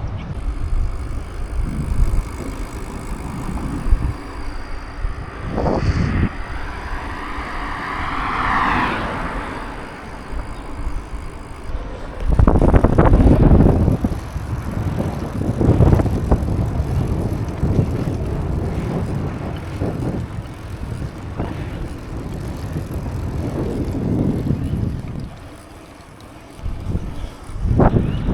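Wind buffeting the microphone of a camera carried on a moving bicycle: an uneven low rumble that swells and drops in gusts, loudest from about 12 seconds in, with a brief higher whine around 8 seconds.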